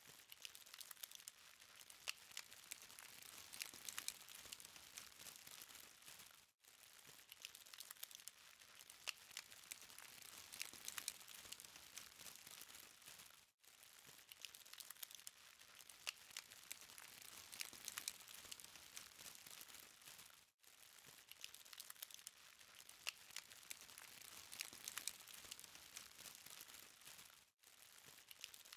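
Charcoal fire crackling faintly: a dense patter of small, sharp crackles over a soft hiss, broken by a brief gap about every seven seconds.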